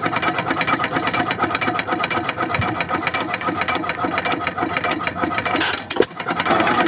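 Antique stationary gas engine running with a steady, rapid beat of about five strokes a second. About six seconds in, the sound briefly dips and there is a sharp click.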